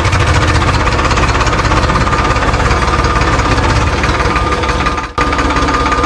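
Miniature tractor's engine running steadily with a fast, even knocking beat, broken by a short dropout about five seconds in.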